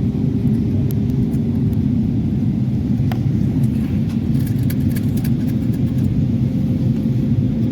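Steady, loud low roar of airliner cabin noise: engine and airflow noise heard from inside the passenger cabin, with a faint steady hum.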